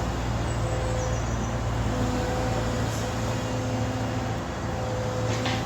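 A large engine running steadily: a low hum with a few steady tones held over a constant rumble.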